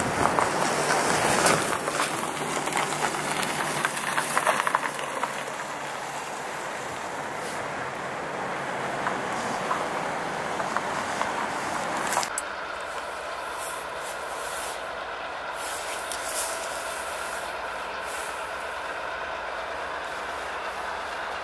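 Freight cars rolling away along the rails, a loud rumble with many sharp wheel clicks. About 12 s in, this gives way to the steady, quieter drone of a New England Central Railroad diesel locomotive approaching slowly.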